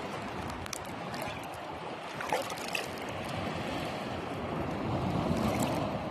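Shallow sea water sloshing and splashing: a steady rush of water with a few sharper splashes.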